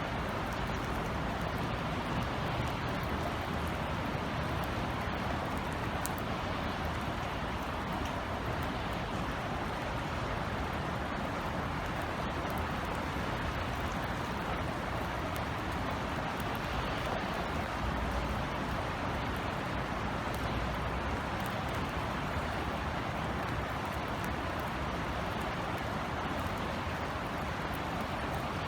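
Steady rain falling in an even, unbroken hiss, with a low rumble of distant city traffic beneath it.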